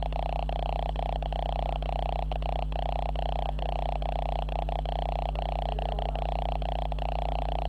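Camera's own electrical noise on its audio track: a constant low hum with a buzzing mid-range tone, broken by rapid, irregular crackles. The camera is faulty.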